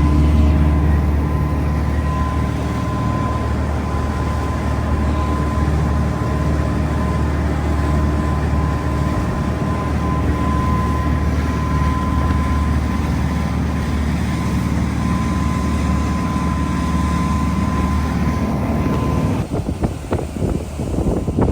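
Boat engine running with a steady low drone and a thin steady whine above it. About nineteen seconds in, the drone gives way to gusty wind noise on the microphone.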